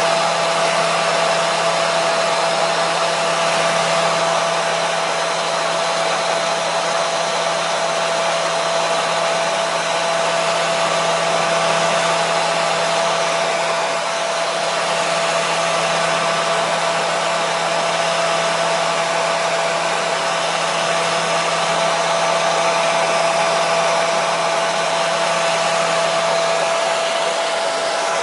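Hair dryer running steadily: a constant rush of air with a motor whine holding one pitch and a low hum beneath.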